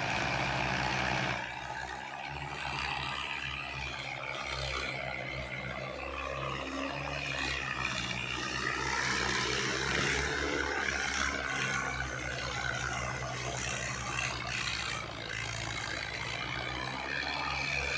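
Diesel tractor engine running steadily, a low, even engine drone with noise over it.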